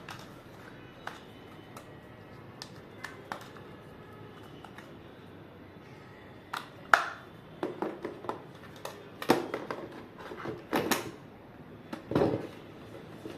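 Robot vacuum and base-station parts being handled and fitted together: scattered light clicks at first, then a run of sharper clicks and knocks over the second half.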